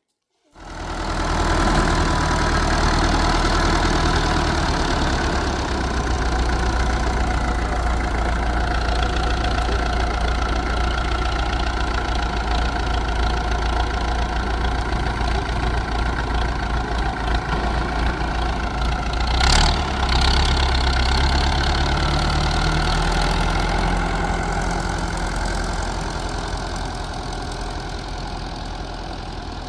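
An engine running steadily, cutting in abruptly just after the start, with one sharp knock about two-thirds of the way through; it grows slightly fainter near the end.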